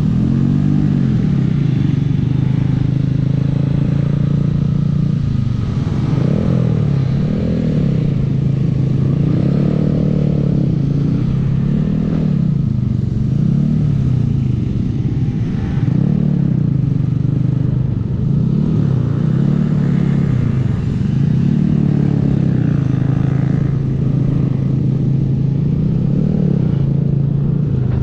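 Honda 125 cc single-cylinder four-stroke minibike engine under way, its pitch climbing and dropping again and again as the rider accelerates, shifts and eases off. Low wind rumble runs underneath.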